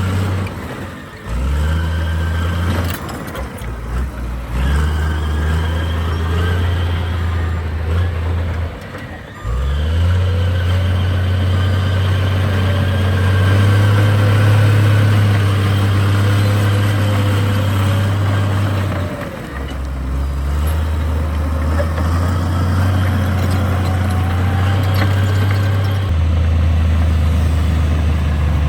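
Heavy diesel engine of earthmoving machinery running under changing load. The engine note steps up and down, dropping briefly a few times in the first ten seconds, then holds steadier with further shifts later on.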